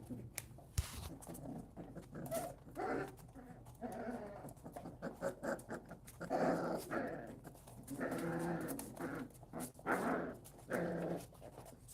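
Three-week-old puppies whining and yelping while they play-fight, in a string of high, drawn-out calls of about a second each.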